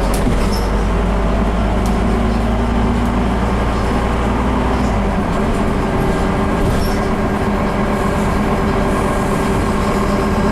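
Scania CN270UB city bus driving, heard from inside: its diesel engine and drivetrain running with a steady drone, the deep low note shifting about halfway through.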